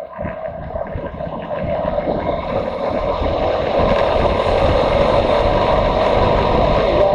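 Motorcycle running on the road with wind noise, growing louder over the first three seconds and then holding steady.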